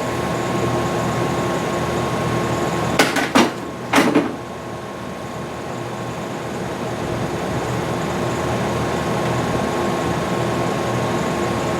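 Steady mechanical hum from the Cessna U-3B's compressed-air landing-gear system cycling the gear, with a few sharp clunks about three to four seconds in.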